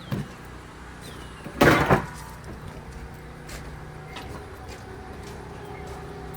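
A short, hard clatter, two quick knocks close together about one and a half seconds in, as a cover is shut into place. A steady low hum runs underneath.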